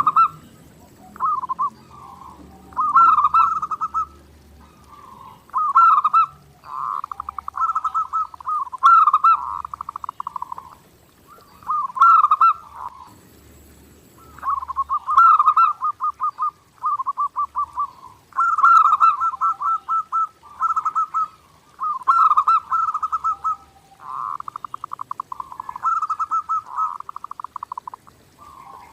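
Zebra doves cooing: phrases of rapid, pulsing notes follow one another every second or two, with short pauses between them.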